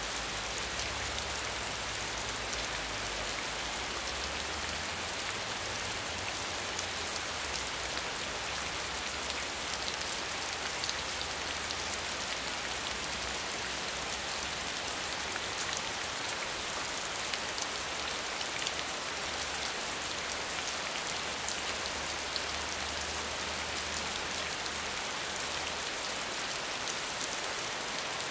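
Steady medium rainfall: an even hiss with many fine drops ticking through it. A soft low rumble sits underneath and fades out near the end.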